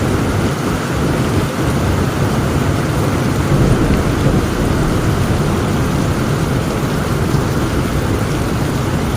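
Heavy rain falling steadily under a continuous low rumble of thunder, swelling slightly a few seconds in.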